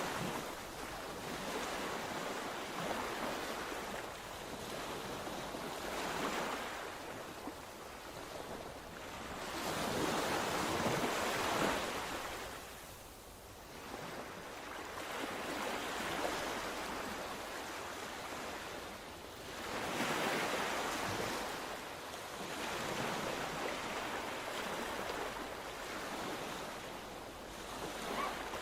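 Sea waves breaking and washing onto the shore, surging and falling back every few seconds, the loudest surge about ten to twelve seconds in.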